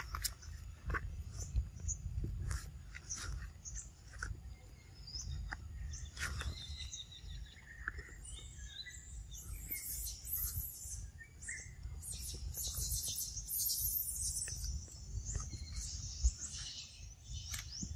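Many birds chirping and calling, busier about two-thirds of the way through, over a steady low rumble and a few faint clicks.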